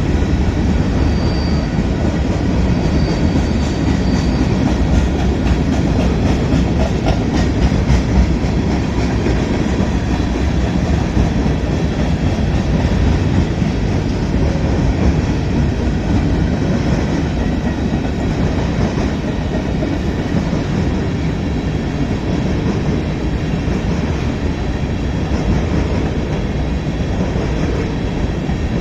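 Railroad cars of a train rolling past, a steady loud rumble of steel wheels on the rails with some rattling.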